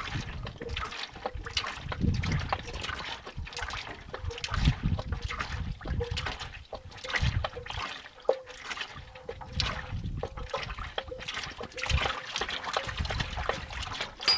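Used engine oil draining from the Kubota M7040SUD tractor's sump into a drain pan, trickling and splashing unevenly.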